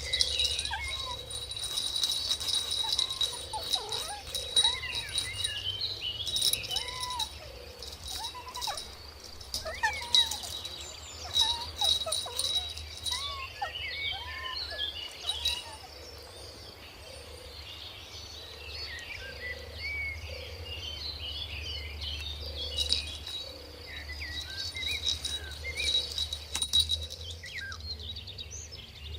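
Kittens mewing over and over in short, high, arching cries, most often in the first half. Beneath them runs a steady high-pitched tone.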